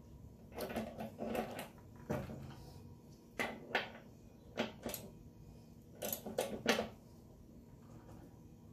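Intermittent clinks and knocks of metal tools and parts being handled during motorcycle wheel work, coming in short clusters of two or three.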